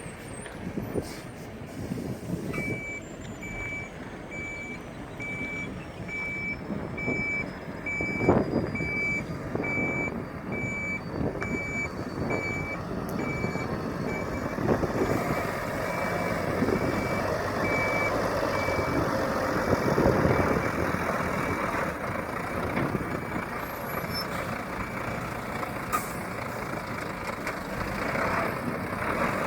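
Gravel dump truck reversing, its diesel engine running under a reversing alarm that beeps at an even pace for about sixteen seconds. The engine grows louder in the second half, and the beeping stops near the two-thirds mark.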